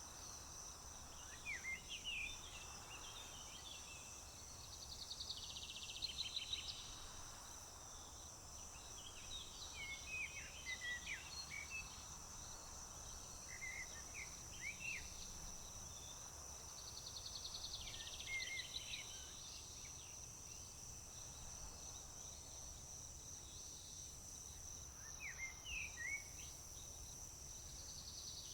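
Outdoor summer ambience: a steady high-pitched insect trill throughout, with birds singing short phrases every few seconds, some of them quick trills, over a faint low rumble.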